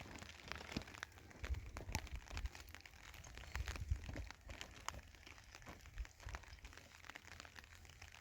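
Plastic sheeting crinkling, with faint irregular crackles and taps.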